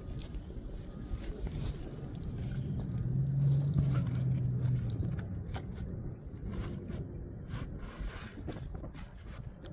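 Scraping and clicking of hands and tools working over asphalt roof shingles. A low engine hum from a passing vehicle swells and fades in the first half.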